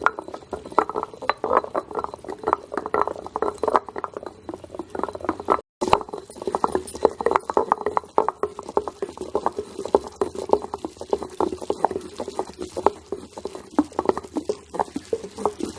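Knife chopping chicken into small pieces on a cutting board: rapid, irregular knocks, several a second, with a brief break about six seconds in.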